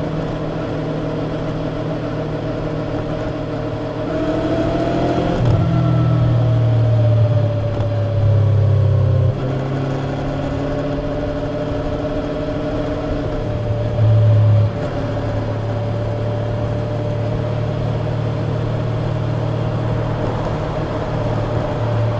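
Yamaha YZF-R25's 249 cc parallel-twin engine running through its stock exhaust while ridden, at a mostly steady engine speed. The pitch rises about four seconds in. The engine gets louder for a few seconds soon after, and again briefly about fourteen seconds in.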